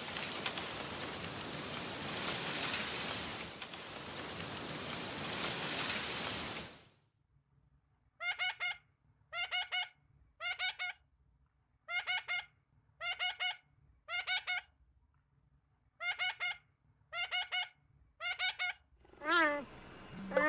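A steady rushing noise for about the first seven seconds, cutting off abruptly; then a rainbow lorikeet calling in short, clear notes in quick pairs and triplets, a group about every second. Near the end a lower, wavering call begins.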